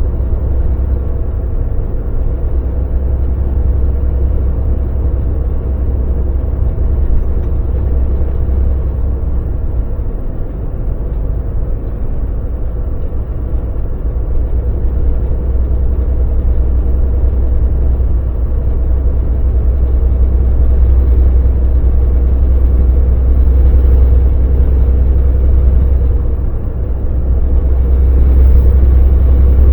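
Volvo VNL semi truck on the move: its diesel engine and road noise make a steady low drone, growing slightly louder near the end.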